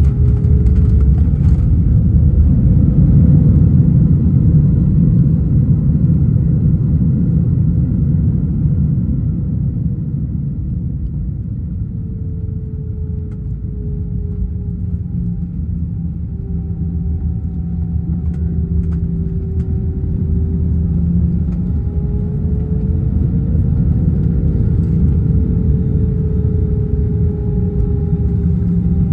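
Airbus A320 cabin noise on the ground after landing: a steady low rumble from the wheels and airframe, with the jet engines' faint whine slowly wavering in pitch. The rumble eases off a little midway and then builds again.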